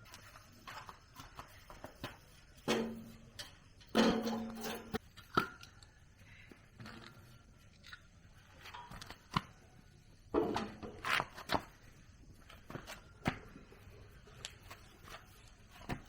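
Irregular clicks and knocks, several clustered around 3–5 s and 10–13 s in, a few followed by a brief ringing tone.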